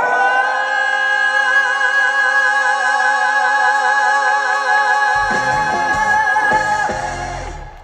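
Live trot song ending: a male singer holds one long final note with vibrato over the band. About five seconds in, drum hits for the closing come in, and the music dies away near the end.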